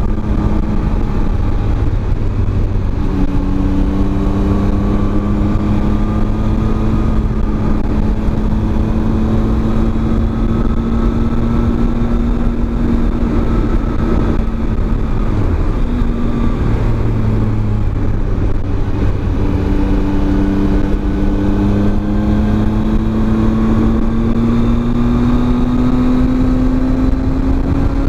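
Triumph Tiger 800 XRt's three-cylinder engine running under way, its pitch drifting with the throttle over a steady rush of wind and road noise. There is a brief dip about halfway, and the pitch climbs steadily near the end.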